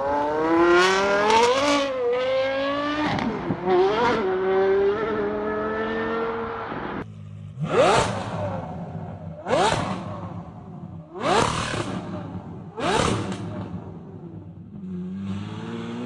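V12 supercar engine revving: a run of revs rising and falling, then, about seven seconds in, four sharp throttle blips about a second and a half apart, each climbing quickly and dying away. Near the end the revs climb again.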